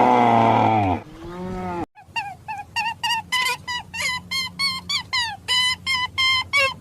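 A cow mooing loudly for about two seconds, then, after an abrupt cut, geese honking in a rapid run of short calls, several a second.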